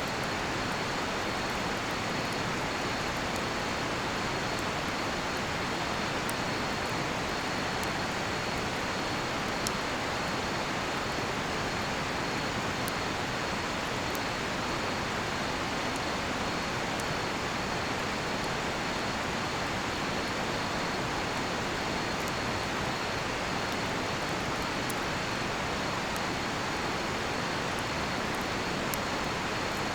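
River flowing steadily. A high, continuous cricket trill sounds over it, with scattered faint crackles from a cedar-wood campfire.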